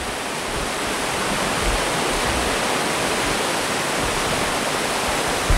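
Steady rushing of water from a waterfall on a mountain river, with a single low thump near the end.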